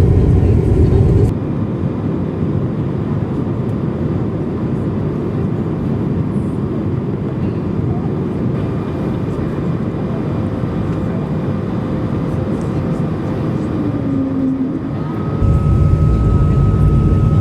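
Steady cabin noise inside an Airbus A220-300 in flight: the rush of air and the hum of its Pratt & Whitney PW1500G geared turbofans. The deep part of the noise drops away suddenly about a second in and comes back just as suddenly near the end.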